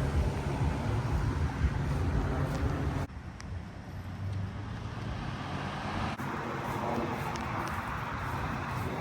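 Steady rumble of road traffic with a hiss over it. It drops off suddenly about three seconds in, then builds back up.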